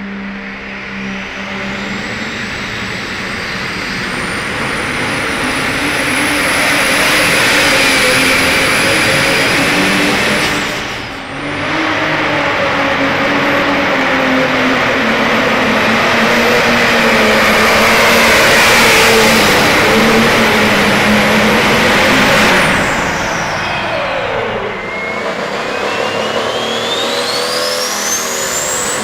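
A pulling vehicle's engine running at full throttle, with a high whine that climbs steadily in pitch. About two-thirds of the way through the engine lets off and its pitch falls, then a new whine starts low and climbs again near the end.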